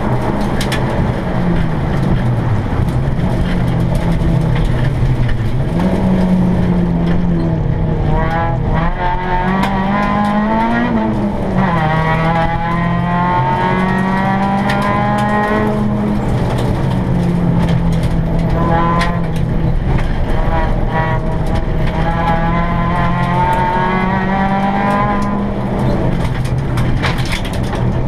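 Seat Ibiza GTI rally car's engine heard from inside the cabin, revving hard and dropping back again and again through gear changes and lifts as it is driven fast on a loose gravel track. Frequent sharp clicks of stones strike the underside of the car.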